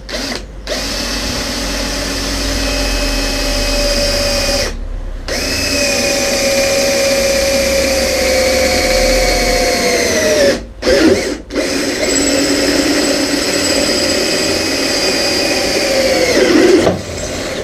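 Electric drill running and boring through an aluminium car bonnet panel: a steady whine in three long runs with short stops about five and eleven seconds in, the pitch sagging each time the drill winds down.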